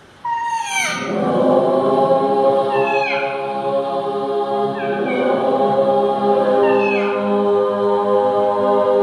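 AI-generated choir voices come in suddenly and hold a sustained chord. Falling, swooping vocal glides cut across the chord about every two seconds.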